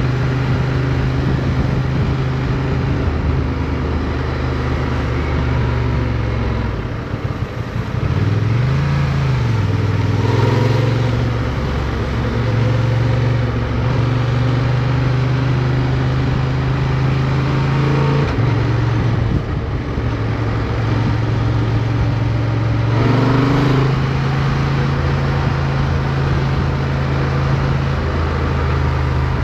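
Motorcycle engine heard onboard, running steadily under load. About seven seconds in it drops off, then its pitch briefly rises and falls again, like a throttle blip on a downshift. It settles back to a steady note, with smaller changes in pitch later on.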